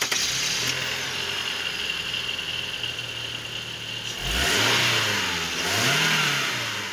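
Car engine running steadily, then revved up and down twice, about four seconds in.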